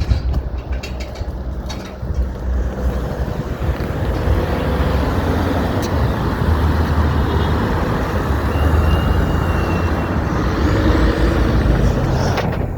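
Road traffic passing close by: a steady low rumble of engines and tyres that grows louder a couple of seconds in, with a brief faint high whine about nine seconds in.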